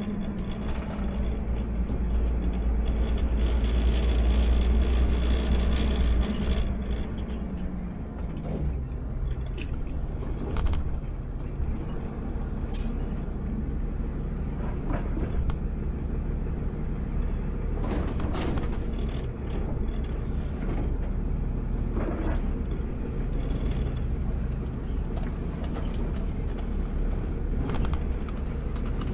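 Automated sideload garbage truck's engine running, heard from inside the cab, with scattered clicks and rattles. The engine is stronger for the first six seconds or so, then settles lower.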